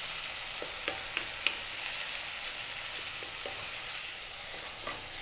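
Onions, tomatoes, ginger and garlic sizzling in hot oil in a non-stick wok, a steady frying hiss, with a few light ticks of the wooden spoon as the vegetables are stirred.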